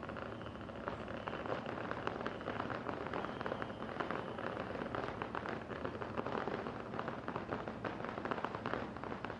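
Fireworks crackling: a dense, continuous run of rapid small pops from crackling stars, which stops abruptly near the end.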